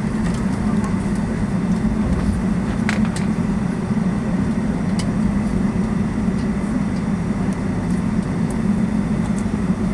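Steady cabin drone inside a Boeing 757-200 on the ground before takeoff: the jet engines at idle and the cabin air making an even low hum, with a couple of faint clicks about three and five seconds in.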